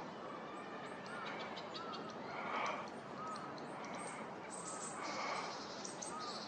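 Wild birds calling: a harsh crow-like call repeats about every two and a half seconds, among short arching whistled notes and thin, high chips and twitters from small birds.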